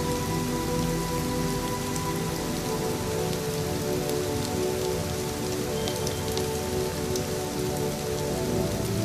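Steady rain falling, with scattered light ticks of drops. Soft ambient music with long held chords sits underneath and shifts chord a couple of times.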